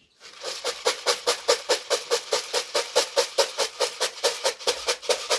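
Rapid, even wingbeats of a pigeon flapping close by, about seven beats a second, cutting off suddenly at the end.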